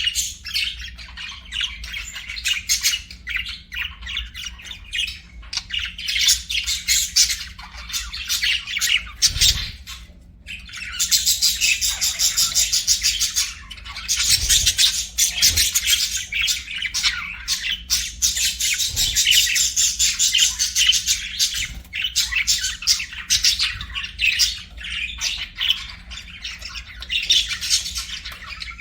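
Several budgerigars chirping and warbling without pause, with stretches of rapid chatter.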